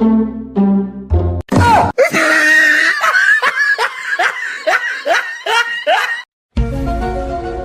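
Loud laughing in rapid repeated bursts, two or three a second, each falling in pitch, between stretches of background music that cut in and out.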